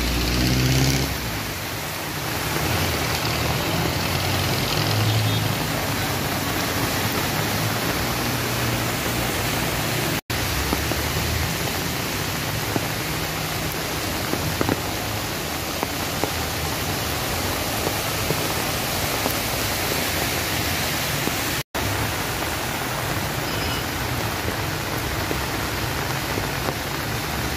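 Heavy rain and floodwater making a steady, even rushing hiss, broken twice by an instant of silence.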